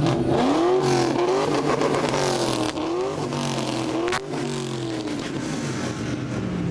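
A car engine being revved repeatedly, its pitch climbing and dropping several times in quick blips. There is a single sharp crack about four seconds in.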